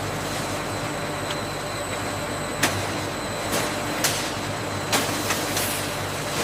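Food-processing factory machinery running with a steady hum, broken by a handful of sharp knocks in the middle stretch.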